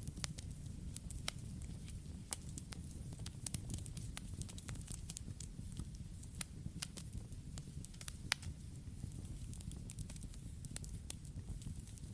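Campfire crackling, with many irregular sharp pops and snaps over a steady low rumble of the flames.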